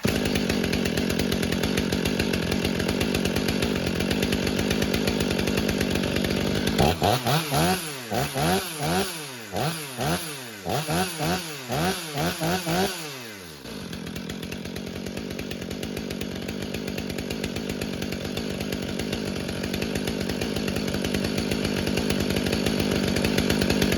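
Stihl MS 500i fuel-injected two-stroke chainsaw running warm, with about a dozen quick throttle revs rising and falling in pitch over the middle few seconds, then settling back to a steady idle.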